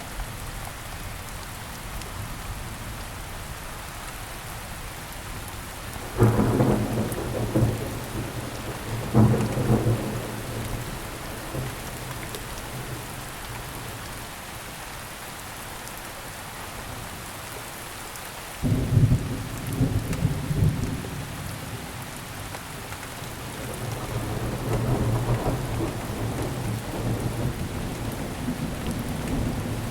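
Steady rain with thunder: three sudden low rolls of thunder in the first two-thirds, and a slower rumble building near the end.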